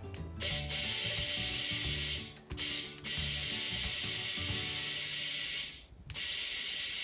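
A steady hiss in four runs, each starting and stopping sharply: two long ones, a short one between them, and another near the end.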